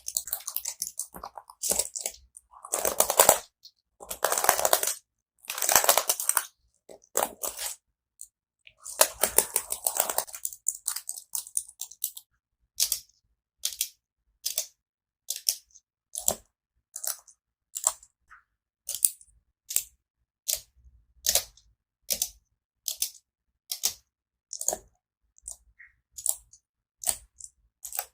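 Keyboard keys clicking and clattering close to the microphone: quick runs of keystrokes in the first several seconds, then single sharp key clicks a little over one a second.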